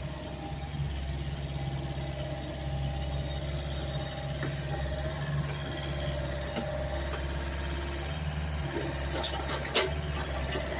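Homemade doodlebug skidder's Dodge W250 truck engine running steadily, with a wavering whine above the low hum and a few sharp metallic clanks near the end.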